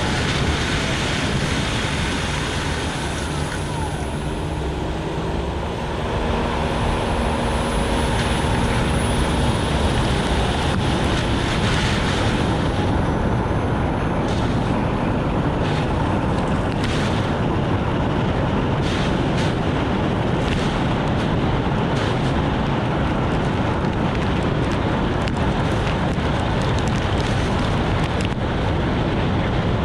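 Steady road noise of a Nissan Note e-POWER driving in heavy rain: tyres hissing on the wet road, with rain and wind noise. Scattered short clicks come in the second half.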